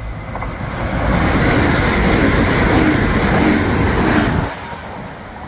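Grand Central Class 180 diesel multiple unit passing through the station at speed: a loud rush of wheels and air with engine note underneath, building up, then falling away suddenly as the train clears, about four and a half seconds in.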